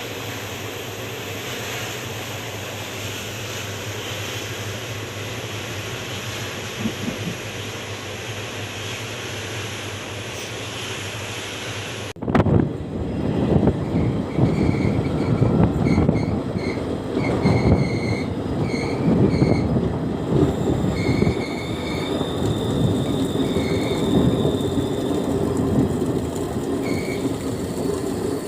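Train running on the rails: a steady rumble with a faint high whine. About twelve seconds in, a sharp change brings louder, uneven rumbling and clatter with short, repeated wheel squeals.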